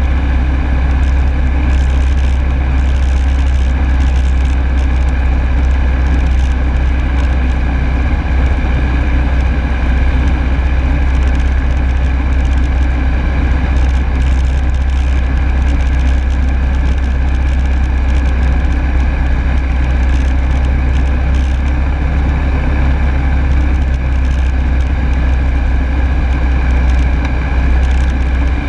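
Rotax 912S four-cylinder boxer engine and propeller of a Rans Coyote S6 ultralight running steadily in flight, heard from on board as a deep, even drone.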